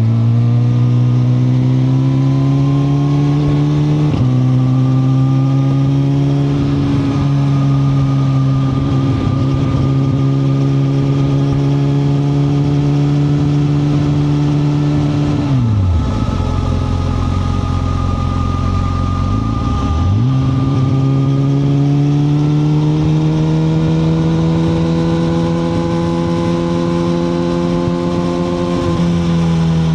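2021 Suzuki GSX-R1000R's inline-four engine running under way, revs shifting with gear changes. Partway through, the revs fall steeply and stay low for about four seconds, then climb again, rising slowly until they drop near the end.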